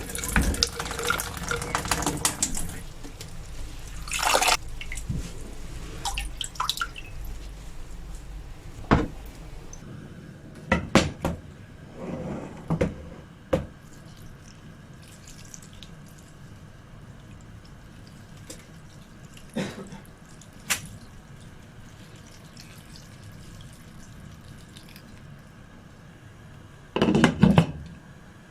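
Water running from a tap into a sink for the first few seconds, then scattered drips, knocks and clinks, with a louder clatter near the end.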